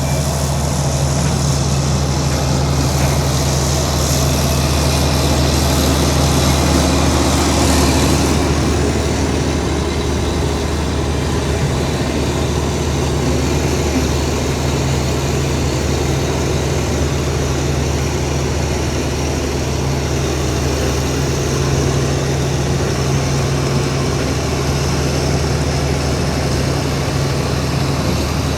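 Heavy diesel engine of earthmoving machinery running steadily with a low, even drone; it grows slightly louder and noisier from about four to eight seconds in, then settles.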